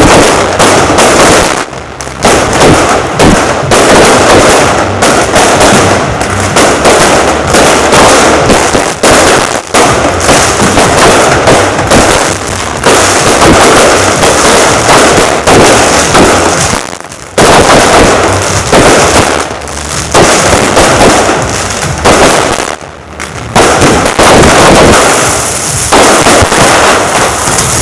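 Fireworks display: a loud, dense, near-continuous barrage of bursting shells and crackling, broken by a few brief lulls.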